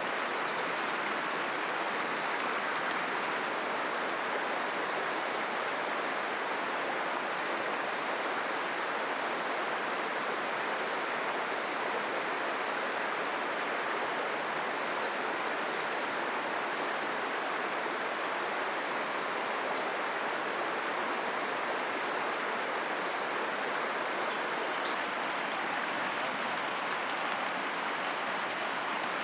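A river flowing steadily, a continuous even rush of running water. Faint high chirps come through about three seconds in and again around the middle.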